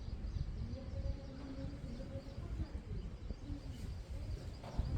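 Outdoor ambience: faint bird calls and chirps over a low, uneven rumble.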